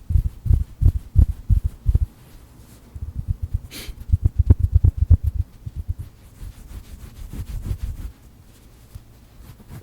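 Stuffed duck plush toy being tapped and handled close to the microphone: quick runs of soft, dull thuds, with a brief hiss about four seconds in.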